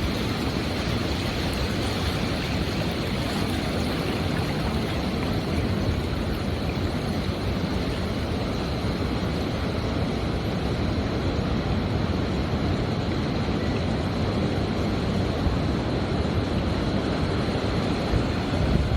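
Steady, continuous noise of ocean surf breaking on a beach, an even wash with no distinct surges or other events.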